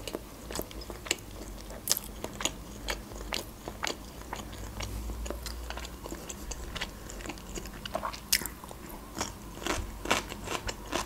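A person chewing mouthfuls of cheese-filled khachapuri bread, with irregular sharp mouth clicks and smacks throughout.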